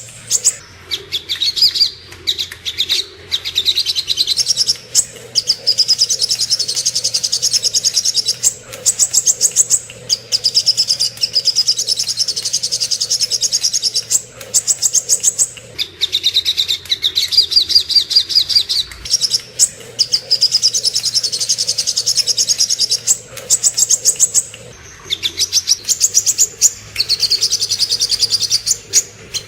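Sogok ontong bird singing in long phrases of very fast, high chirping trills, each lasting a few seconds with brief pauses between.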